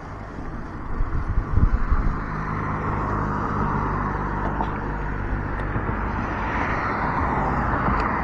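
Wind buffeting the microphone and road noise while riding an e-bike, with heavy gusts about a second in and a steady low hum setting in soon after.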